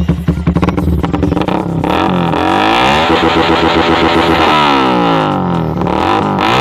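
Yamaha Vixion's 150 cc single-cylinder four-stroke engine through an aftermarket racing exhaust, idling with a fast pulsing beat. About two seconds in it is revved up and held, then let fall back about five seconds in.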